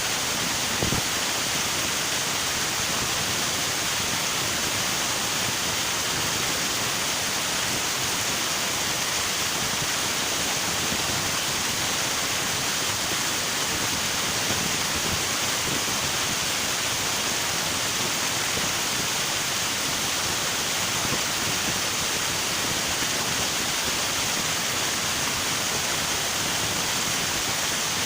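River water rushing and splashing over rocks, a steady, even hiss without pause.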